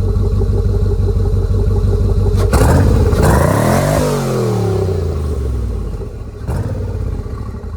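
Swapped-in V8 engine in a 2000 Porsche Carrera idling with a lumpy, pulsing beat, then revved once about two and a half seconds in: the pitch climbs for about a second and a half and falls back to idle. A second short, sharp blip comes near the end.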